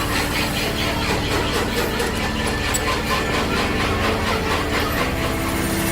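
A workshop machine running with a steady low hum, under a fast, even rasping rhythm of about six strokes a second. The sound changes about five seconds in.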